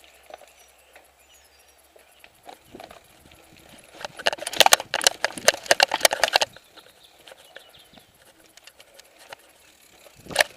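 Mountain bike clattering over rough trail: scattered light knocks and rattles, then for about two and a half seconds a dense, loud run of sharp knocks as the bike goes over rough ground, and one more knock near the end.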